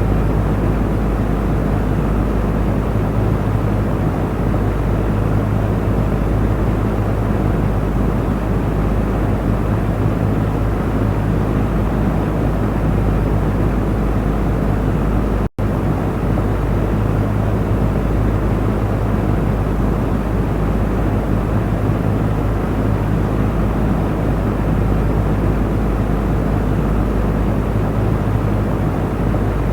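Electric cooling fan running steadily: an even rush of air over a low motor hum. The sound cuts out for an instant about halfway through.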